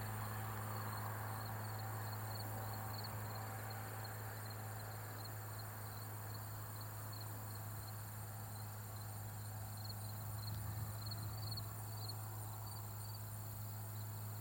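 Insects, likely crickets, chirping in quick repeated high pulses, over a faint steady low hum.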